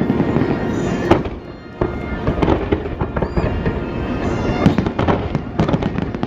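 Fireworks display going off in rapid, overlapping bangs and crackling, with a short lull about a second and a half in that ends in a sharp bang, and a brief whistle midway.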